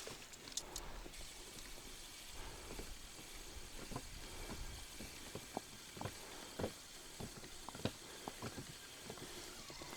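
Faint, irregular light clicks and taps over a quiet, steady outdoor background.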